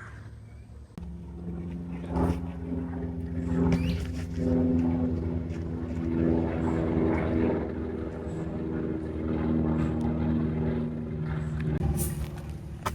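A motor engine running with a steady low drone that starts about a second in and holds until near the end, with a few short knocks along the way.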